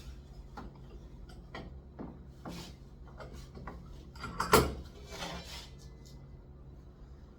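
Wooden pieces and hand tools being handled: scattered light knocks and clicks, with one louder knock about four and a half seconds in.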